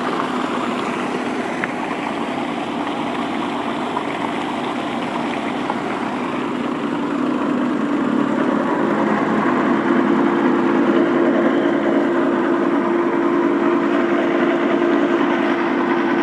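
Mahindra 575 DI tractor's diesel engine running steadily under load, driving a PTO-mounted 4-inch centrifugal water pump. It is a constant drone with a steady hum that grows a little louder about halfway through.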